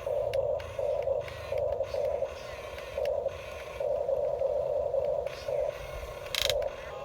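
Small electric gear motors of a radio-controlled construction model whirring in short stop-start bursts, about ten in a row. A brief harsh burst of noise comes about six and a half seconds in.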